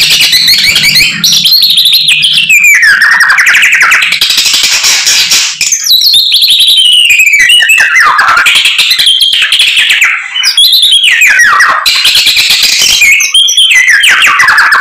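Caged samyong songbird singing continuously: a fast, varied stream of whistles and trills sliding up and down in pitch, with brief dips about six and ten seconds in, its full repertoire of mimicked song.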